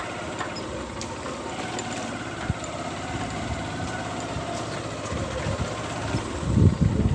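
A vehicle engine running steadily with a rapid low pulsing, with a louder patch of low rumbling thumps about six seconds in.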